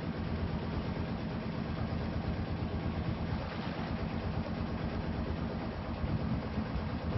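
Boat engine running steadily at a low, even speed.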